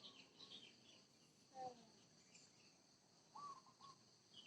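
Faint, distant bird calls: a few short high chirps, a brief call about a second and a half in, and two short arched calls a little past three seconds, over a steady faint high insect chirring.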